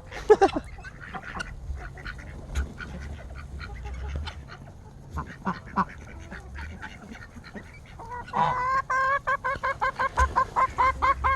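Geese honking: scattered calls at first, then from about eight seconds in a long fast run of repeated honks, several a second.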